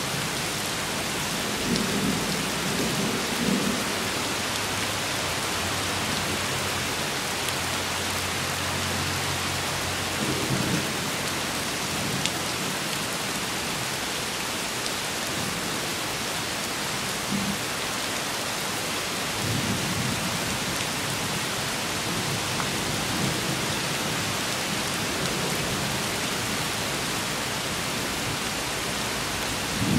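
Steady rain falling, with low rolls of thunder rumbling several times, the longest a little past the middle.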